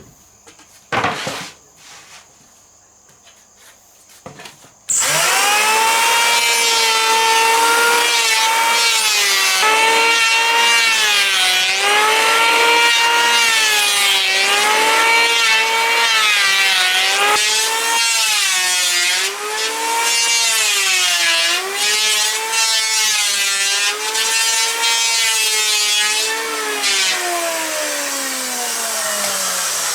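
An electric power tool starts about five seconds in and runs while working wood, its motor pitch dipping again and again as it bites into the timber. Near the end it is switched off and winds down in a falling whine. A couple of knocks come before it starts.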